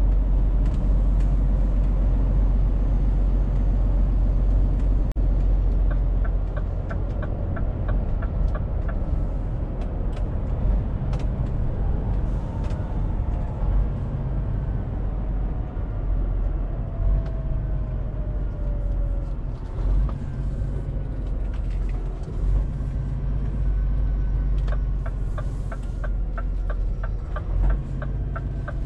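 Scania truck driving, heard from inside the cab: a steady low engine rumble with road noise. A fast regular ticking comes in a few seconds in and again near the end.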